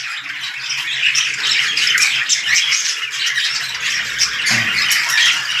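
A flock of caged budgerigars and cockatiels chattering and squawking continuously, a dense mass of overlapping high calls.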